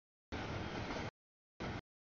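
CSX double-stack freight train rolling past, a steady rumble and rushing wheel noise. The sound cuts abruptly in and out to dead silence: about a second of noise, a gap, then a short burst near the end.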